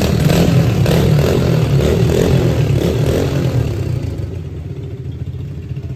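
Small four-stroke 110cc dirt bike engine running, loud for the first few seconds and then dropping lower in level about four seconds in.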